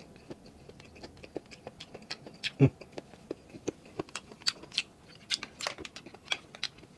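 Close-miked mouth sounds of someone eating grilled balut: wet clicks, smacks and small snaps of chewing, scattered irregularly. A single louder dull thump comes a little over a third of the way in.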